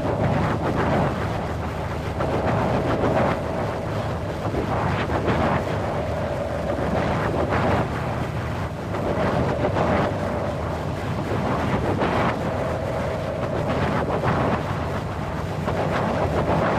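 Windy atmosphere: wind rushing steadily in gusts that swell every second or two, with a faint whistle that comes and goes.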